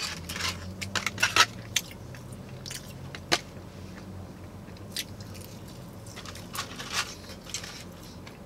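Close-up chewing of battered onion rings dipped in ranch: irregular crisp crunches and wet mouth sounds, thickest about a second in, over a faint steady low hum.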